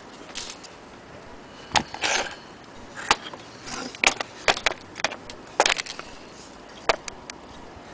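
Handling noise: irregular sharp clicks and taps mixed with short scraping rustles, with no steady rhythm.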